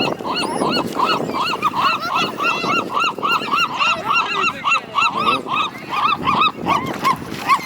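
A flock of birds crowding in to be fed, calling non-stop in short, honking calls, several a second and overlapping.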